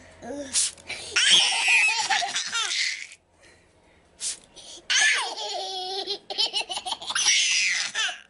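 Toddlers laughing in two long fits, the first starting about a second in and the second about five seconds in, with a short lull between.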